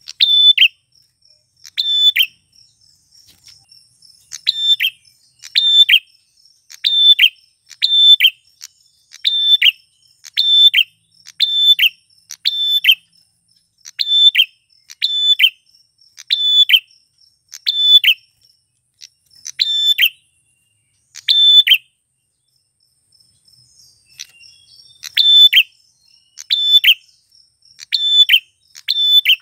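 Male prenjak (prinia) calling: loud, sharp high chirps repeated about once a second, breaking off briefly twice. A faint, steady insect trill runs underneath.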